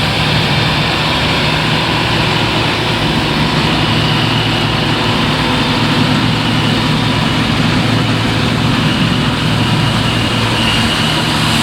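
Heavy diesel farm machinery, a John Deere combine and a John Deere 7530 tractor with grain trailer, running steadily close by. A faint steady high whine joins the engine drone about four seconds in.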